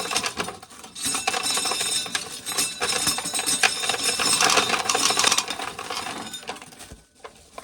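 Corn sheller shelling an ear of corn: a fast metallic rattle and clatter of the toothed mechanism, with kernels clinking as they fall. It runs from about a second in and stops near the end.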